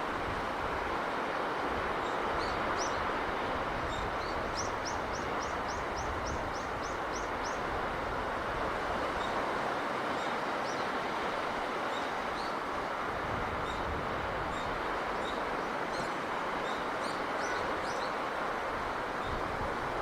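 Steady rushing sea breeze with small birds chirping over it, including a quick run of about ten rising chirps a few seconds in.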